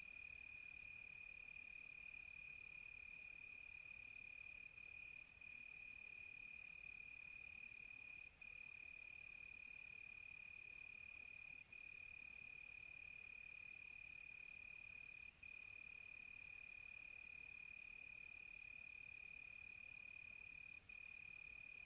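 Crickets chirping at night: a faint, steady high trill, with a second, higher and faster-pulsing insect call from about five seconds in until about seventeen seconds.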